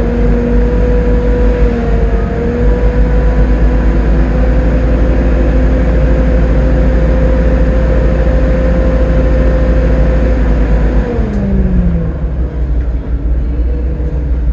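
Volvo B7TL double-decker bus's six-cylinder diesel and driveline running at a steady speed, with a steady whine over a heavy rumble. Near the end the whine falls in pitch as the bus slows down.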